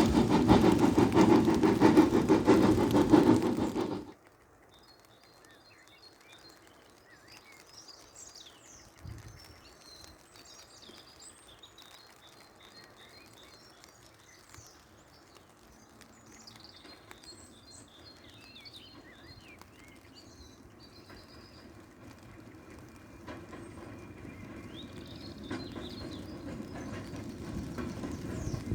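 Steam-hauled train passing close by, loud and rhythmic, cutting off abruptly about four seconds in. Then birds chirp over a faint background, and the low rumble of another approaching train builds steadily through the last few seconds.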